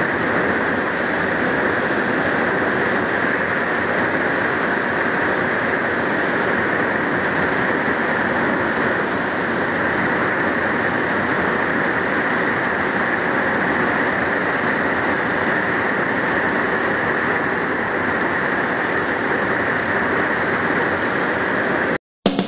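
Heavy tropical-storm rain pouring down in a loud, steady, unbroken hiss. It cuts off abruptly near the end.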